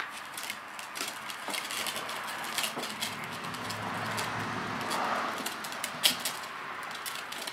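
A Ford Mustang driving past: its sound swells over a few seconds, peaks about halfway through and fades away. Scattered light clicks sound throughout.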